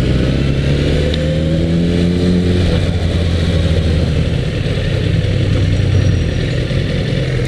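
2010 BMW S1000RR's inline-four engine running at low revs as the bike rolls slowly. Its note rises slightly over the first couple of seconds, then holds steady near idle.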